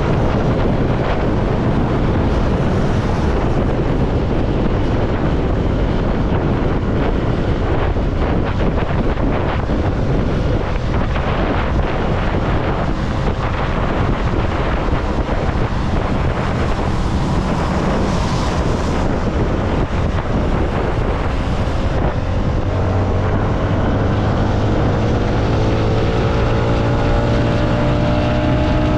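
CFMoto motorcycle engine running at road speed, with heavy wind noise on the microphone. About three-quarters of the way in, the engine note climbs steadily as the bike accelerates.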